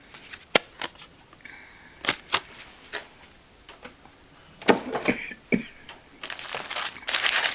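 Scattered sharp clicks and taps of craft packaging being handled and set down, with a short burst of plastic-packaging crinkling near the end.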